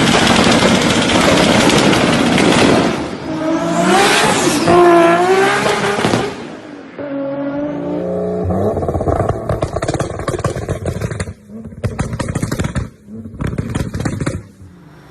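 A Toyota Supra MK4's straight-six engine revving hard under a loud rush of noise, its revs swinging up and down about four to five seconds in. Then a rougher, crackling run of engine sound broken by short gaps.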